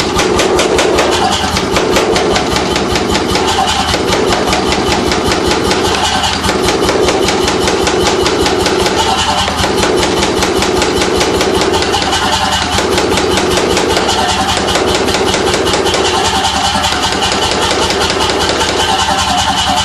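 C41 pneumatic forging hammer (air hammer) running, with a rapid, steady train of strokes over a mechanical hum that dips briefly every couple of seconds.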